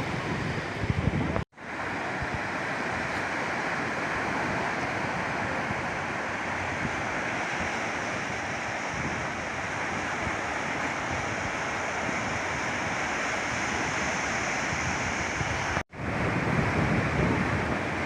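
Rain falling as a steady, even hiss, broken twice by abrupt cuts to silence, about a second and a half in and near the end. Before the first cut and after the second, gusts of wind buffet the microphone with a low rumble.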